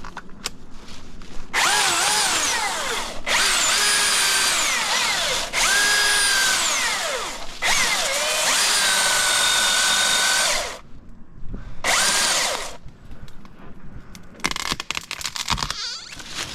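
Milwaukee battery-powered chainsaw running in five bursts of high electric whine, its pitch dipping and climbing as the chain bites into small trees and brush, with a run of crackles near the end.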